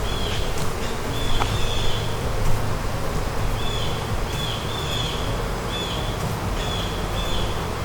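Honeybees buzzing in a steady low hum around an open hive. A bird repeats short high chirps over it, with a few light knocks and clicks from the frames being handled.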